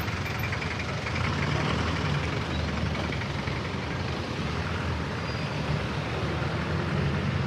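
Street traffic: vehicle engines running in a steady low rumble.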